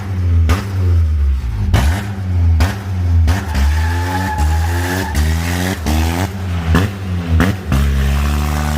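Honda Accord VTEC engine with an open exhaust, revving hard and bouncing off the rev limiter again and again during a burnout. Each climb in pitch is cut off sharply, and the revs hold steadier near the end.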